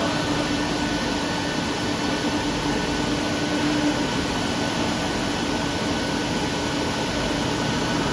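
Steady machinery hum with a low steady tone in it that eases a little about four seconds in.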